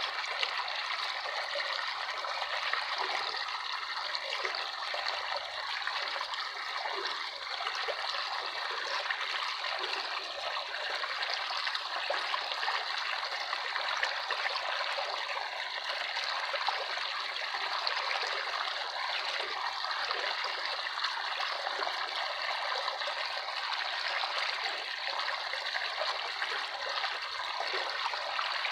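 Running water of a small stream, a steady, even rush with no break.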